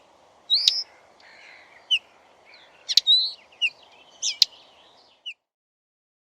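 Common linnet twittering: short high chirps and quick twittering notes, with a few sharp clicks among them, stopping a little after five seconds in.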